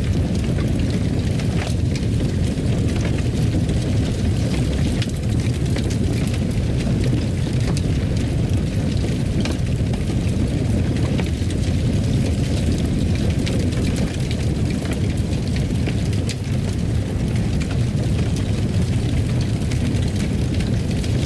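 Fire burning in a fireplace: a steady low rumble with many small, scattered crackles.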